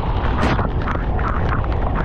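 Loud, steady wind buffeting on the microphone of a moving motorcycle in heavy typhoon rain, a deep rumble under a rough hiss of rain and air.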